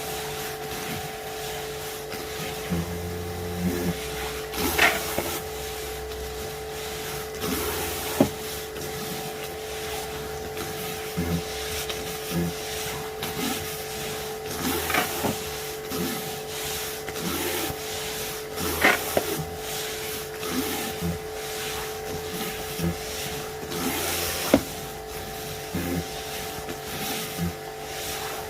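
Wilks USA RX 550i electric pressure washer running, its motor and pump giving a steady whine over the hiss of the water jet, with irregular clicks and knocks throughout.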